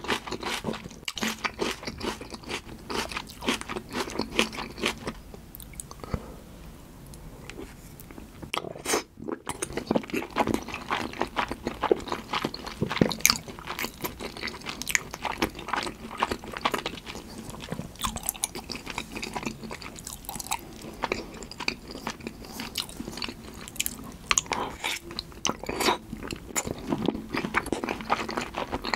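Close-miked chewing of giant salmon sushi topped with tartar sauce: a dense run of wet mouth clicks, smacks and crunches, with a quieter stretch of a few seconds about a fifth of the way in.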